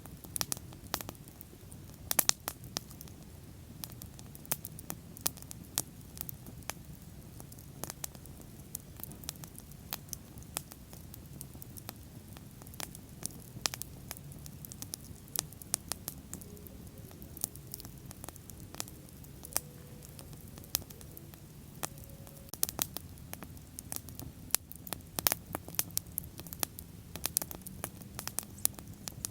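Wood bonfire crackling, with irregular sharp pops and snaps over a low steady rumble of the flames.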